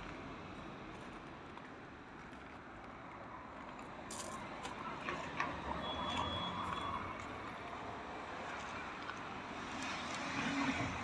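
Outdoor urban background: a steady hum of distant traffic, with a few small clicks and rattles scattered through it and a brief thin high tone about six seconds in.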